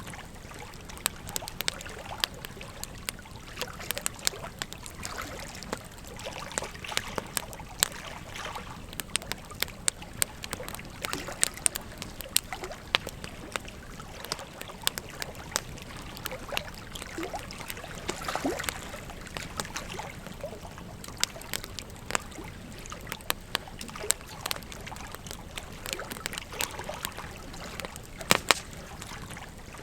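Wood fire crackling, with sharp pops scattered irregularly throughout, over the steady rush of flowing river water.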